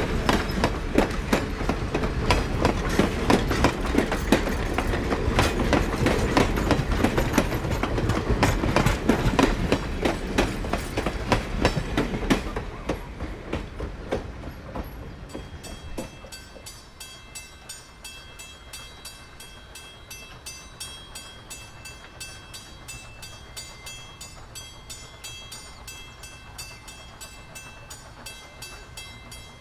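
A train of steel passenger coaches rolling past, the wheels clicking rhythmically over the rail joints, loud and then fading away over about fifteen seconds as the train recedes. After that comes a much quieter background with a faint, fast, high chirring and a low distant rumble.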